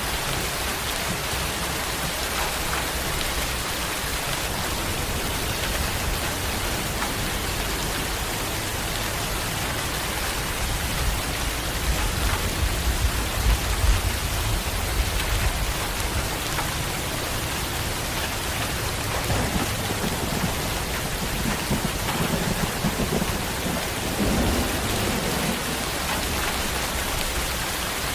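Steady rain falling, with low rumbles of thunder rolling through, loudest about halfway in and again later.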